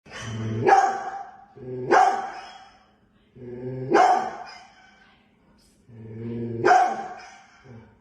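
A dog barking: four drawn-out barks about two seconds apart, each with a low rough start that rises to a louder peak.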